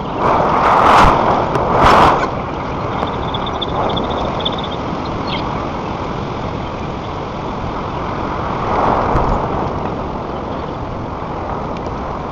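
Wind rushing over the nest camera's microphone high in a tree, a steady roar with stronger gusts about a second in, again at two seconds, and around nine seconds.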